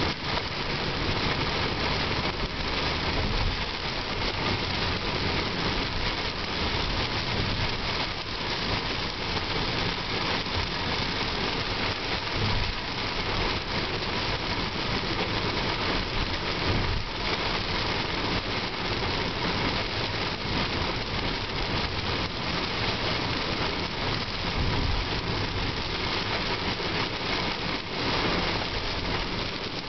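Heavy rain pelting a car's roof and windshield, heard from inside the cabin while driving, with steady vehicle and tyre noise underneath.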